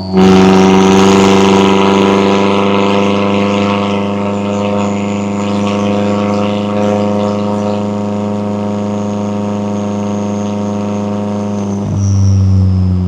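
McLaren 570S twin-turbo V8 exhaust coming on throttle suddenly and loudly, then holding a steady drone at nearly constant revs. The note eases slightly in loudness and dips briefly about twelve seconds in.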